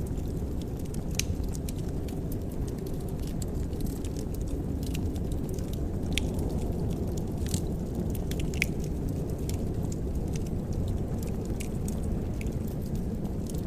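Wood fire in a fireplace crackling, with scattered sharp pops and snaps over a steady low rush.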